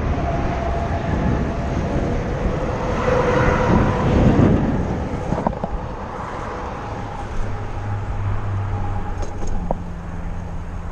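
Road traffic going by near an interstate, a steady rumble and tyre hiss, with one vehicle passing louder about three to four seconds in.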